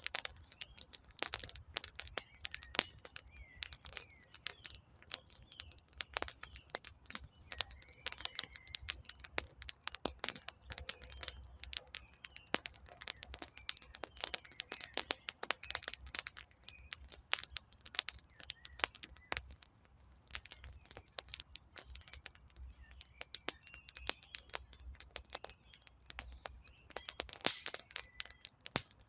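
Wood campfire crackling and popping in irregular sharp snaps, with faint birdsong chirping in the background.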